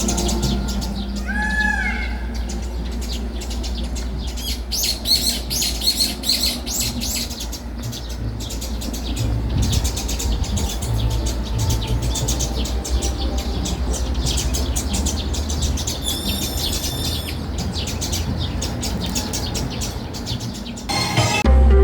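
A crowd of small birds chirping and twittering in a dense, rapid chatter, with a few longer sliding calls standing out, over a steady low hum. Loud music cuts in right at the end.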